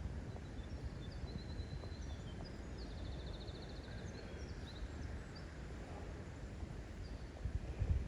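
Wind rumbling steadily on the microphone, with small birds chirping faintly over it and one giving a short rapid trill about three seconds in.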